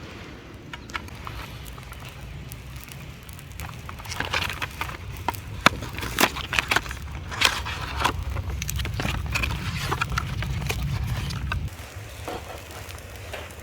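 Wood crackling and snapping in a rapid, irregular run of sharp cracks, over a low rumble that cuts off suddenly near the end.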